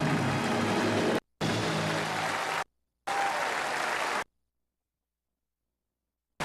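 Television broadcast audio of audience applause over music, cutting out abruptly to dead silence three times, the last gap about two seconds long: dropouts caused by interference in the cable TV signal.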